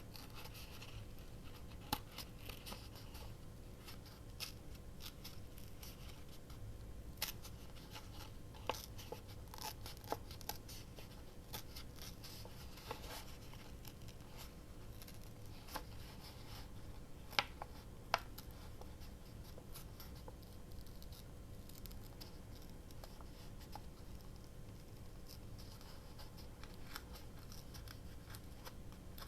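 Paper being torn slowly and carefully by hand around the edges of a sticker: faint crackling with scattered small ticks and snaps, two of them sharper about two-thirds of the way through.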